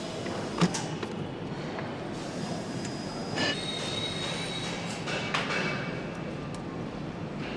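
Metal parts clanking three times during engine assembly work, with a brief high-pitched metallic squeal after the second clank, over a steady workshop background noise.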